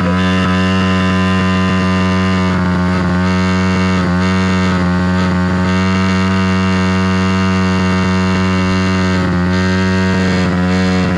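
A pit bike's small single-cylinder engine running hard at a steady high rpm while it is deliberately run to destruction. The pitch dips briefly twice, about four seconds in and near the end.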